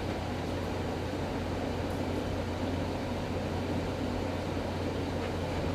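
Revlon One-Step hair dryer brush running steadily on its low setting, an even motor-and-airflow whir with a low hum.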